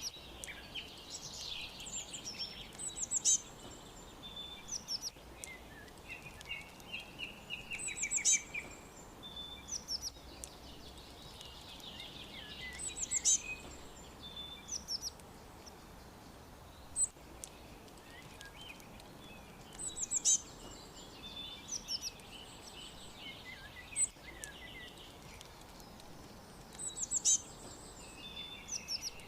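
Several wild birds chirping and singing. One bird repeats a short, high, rapid chirping phrase every four to five seconds, while others give warbling trills in between, over a faint steady background hiss.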